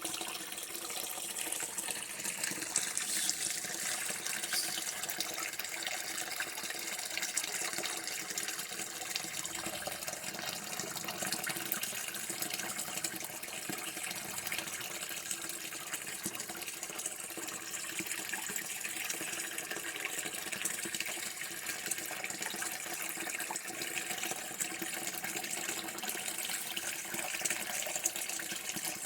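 Running water pouring in a steady, unbroken stream.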